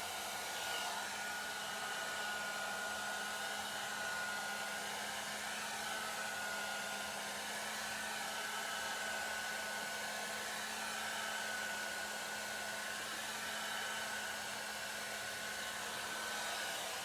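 1800-watt ionic hair dryer running steadily on its low speed setting, blowing a continuous rush of air with a faint high whine from the motor.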